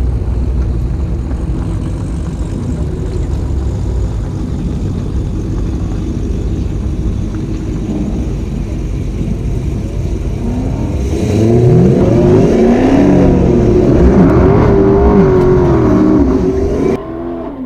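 Dodge Hemi V8 muscle-car engine with a steady low rumble, then about ten seconds in revving hard in several rising and falling sweeps, like a car accelerating through its gears at the dragstrip. The sound cuts off suddenly near the end.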